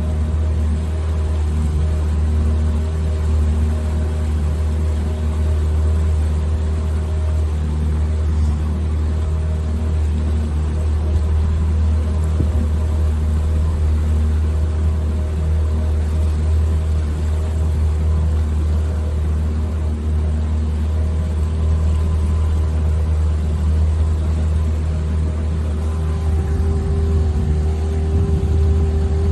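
Boat motor running steadily at travelling speed, a loud low drone of constant pitch with water and wind noise over it. Its note shifts slightly near the end.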